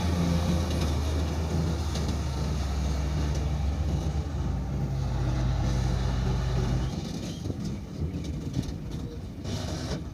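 Dump truck's diesel engine running steadily with a low hum, falling away and growing quieter about seven seconds in.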